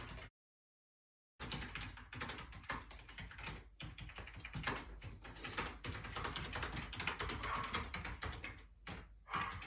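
Computer keyboard keys clattering in a quick, irregular run of clicks, starting about a second and a half in after a moment of silence.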